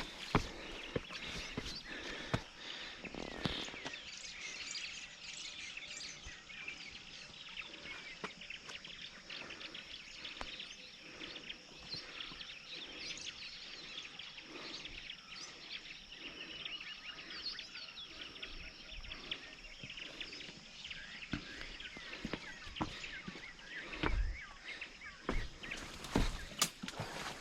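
Many small birds chirping and twittering over a steady high background drone. There are a few low thumps or gusts on the microphone, most of them near the end.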